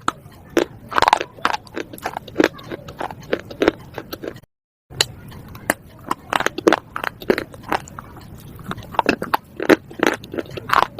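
Slate being bitten and chewed: a run of sharp, irregular crunches and cracks, cutting out to silence for a moment about four and a half seconds in.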